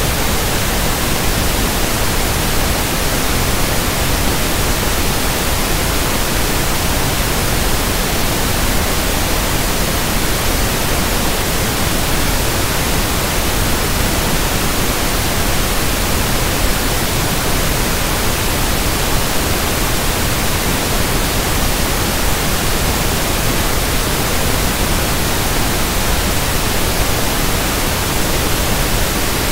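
Synthetic pink noise (1/f noise): a steady, even hiss spread across all pitches, with no changes or breaks.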